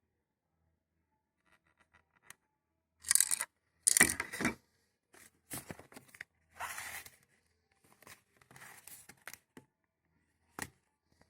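Irregular bursts of rustling and scraping handling noise, the loudest a few seconds in, with a sharp click near the end.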